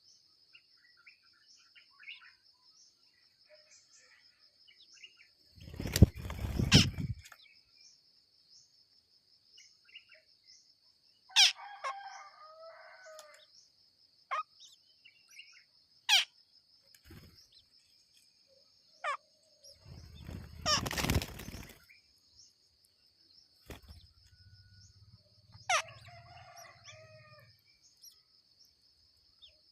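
Birds at a nest: two loud rushes of wing flapping, about six and twenty seconds in, among sharp single chirps and short bouts of chirping calls. A steady high insect buzz runs underneath.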